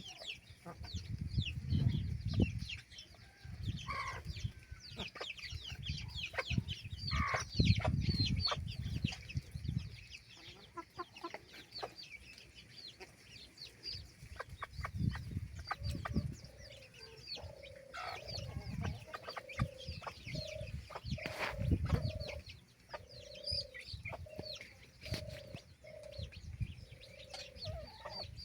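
Chickens clucking, with many short high chirps throughout and, in the second half, a regular run of short low clucks a little more than one a second. Low rumbling bursts come and go underneath.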